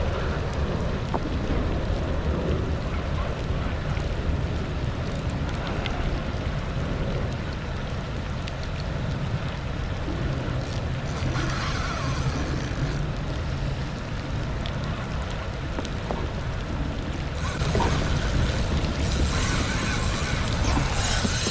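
Wind buffeting the microphone over the sound of water around the kayak, with stretches of brighter splashing hiss about halfway and again near the end.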